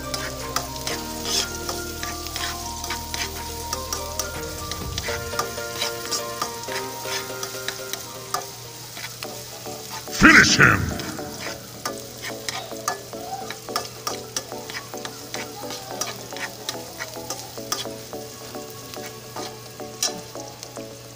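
Chopped onion sizzling as it fries in a little oil in an aluminium wok, stirred with a metal spoon that scrapes and clicks against the pan. About ten seconds in, a loud, brief sound effect with a falling pitch is edited in over the frying.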